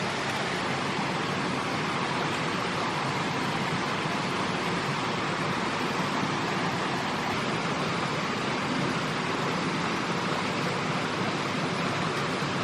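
Steady rushing of water, an even noise with no separate splashes or events.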